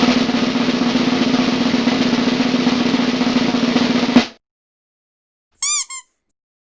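Snare drum roll lasting about four seconds, ending on a louder hit. About a second and a half later come two short high chirps, one right after the other.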